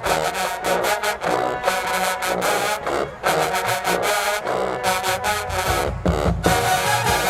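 HBCU-style marching band playing: brass section over a driving drum beat, with low brass growing heavier about five and a half seconds in.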